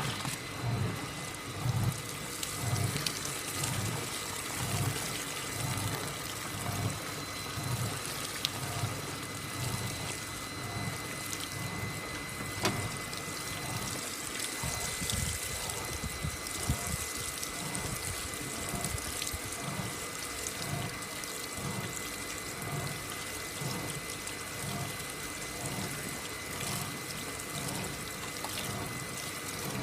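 AQUA MCW-C50 coin-operated top-loading washing machine in its wash cycle: water sloshing in regular surges about every two-thirds of a second as the pulsator swishes back and forth, over a thin steady whine.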